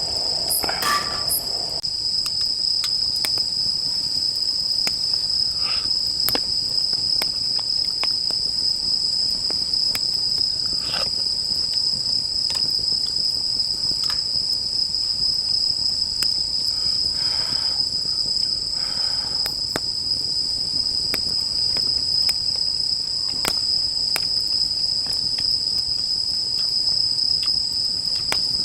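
Crickets chirring in a continuous high-pitched trill, with scattered sharp crackles and pops of firewood burning in a fire pit.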